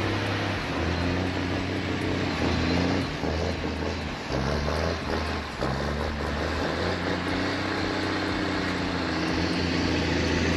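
A large vehicle's engine running, its pitch stepping up and down as it is revved and eased off.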